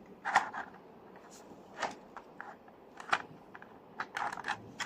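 Packaging of a boxed model airplane being handled and opened: a scatter of short rustles and clicks at irregular moments, several close together near the end.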